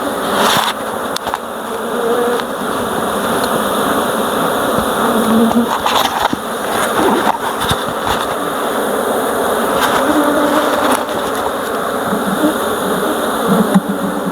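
Honeybees buzzing loudly around an opened hive, a dense steady hum from a very active colony that builds over the first couple of seconds, with a couple of light knocks partway through.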